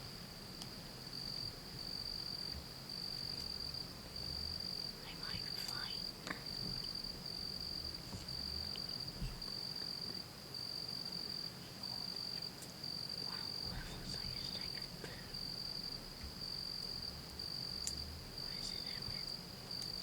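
Insect chirping, cricket-like: a high-pitched trill in even, repeated pulses, about three every two seconds, with a few faint rustles and clicks.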